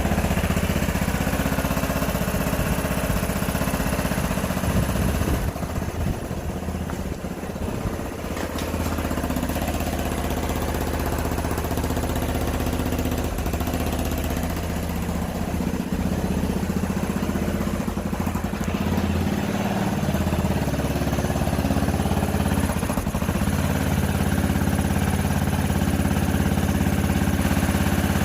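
A 125 cc motorcycle engine idling steadily, with a brief dip in level about six seconds in before it settles back to an even idle.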